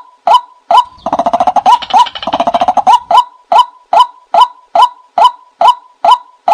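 A bird calling a short, rising note over and over at a strictly even pace, a little over two calls a second. From about one to three seconds in, a fast run of rapid chattering calls joins in.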